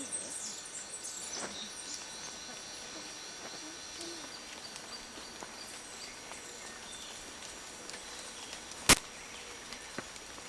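Tropical forest ambience: quick repeated bird chirps in the first few seconds over a steady high insect whine. A sharp click about nine seconds in is the loudest sound, followed by a smaller one a second later.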